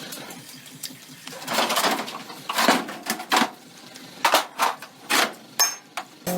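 An irregular series of sharp knocks and short scraping clatters, about eight to ten spread over a few seconds, with no steady engine sound.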